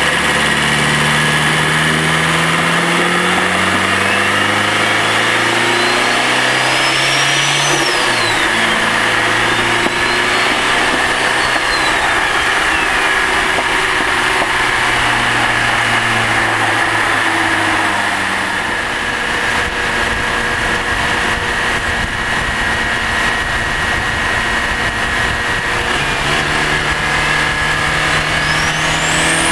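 Turbocharged Honda Integra LS-VTEC four-cylinder, recorded in the engine bay, driven through the gears: the engine note climbs and steps down at each shift. The STC turbo spools with a rising whistle that cuts away when the throttle lifts, a few seconds in and again around ten seconds. Later there is a quieter stretch with a steady whine, then another spool-up near the end.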